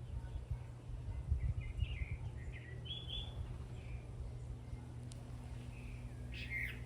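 A bird chirping in short bursts of calls, a cluster in the first half and another call near the end, over a steady low background rumble. Gusts of wind buffet the microphone in the first couple of seconds.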